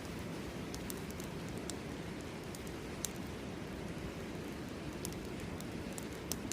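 Steady rush of a flowing river with a campfire crackling over it in scattered sharp pops.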